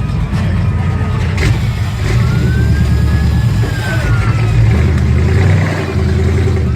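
Large mud truck engine running loud with a deep rumble and some revving. Over it, a high whine slowly rises and falls, twice.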